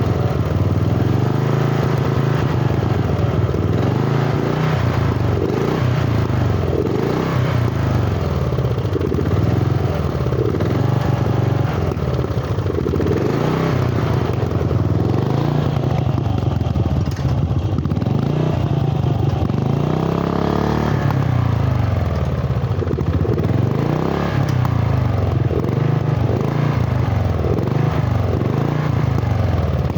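Freshly rebuilt ride-on mower engine running hard through its homemade exhaust, its speed wavering up and down without a break.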